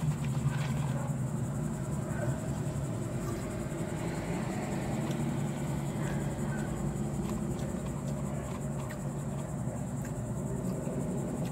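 Steady low hum of a car's idling engine, heard inside the cabin.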